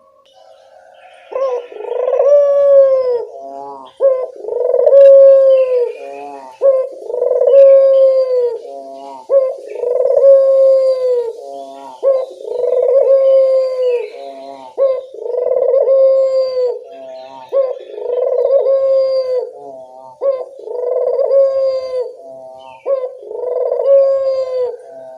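Puter dove cooing over and over: a long drawn coo about every three seconds, each followed by a quick stuttering run of short notes. This is the lure call used to get wild puter doves to answer. Small birds chirp faintly in the background.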